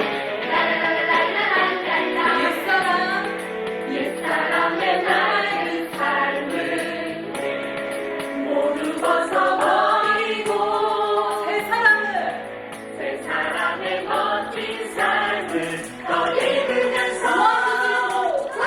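Christian praise song for children: a group of voices singing over an instrumental backing track with a steady beat.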